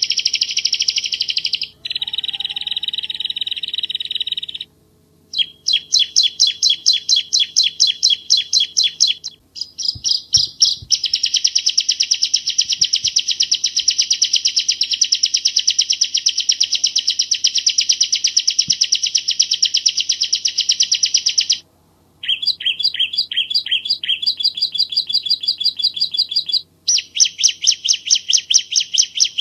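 Bar-winged prinia (ciblek Jawa) singing long trains of rapid, closely spaced high chirps, broken by several brief pauses.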